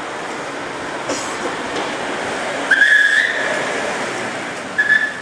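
A whistle blown twice over steady street traffic noise: a longer blast about halfway through and a short one near the end.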